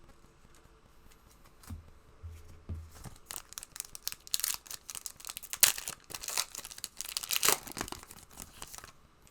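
Card pack wrapper being torn open and crinkled: a few soft bumps, then from about three seconds in a long stretch of sharp tearing and crinkling of the wrapper.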